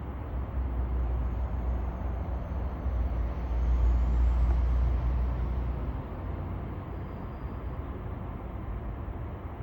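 A train at a station platform, a low rumble that grows loudest about four to five seconds in and then eases off, with a faint high whine rising partway through.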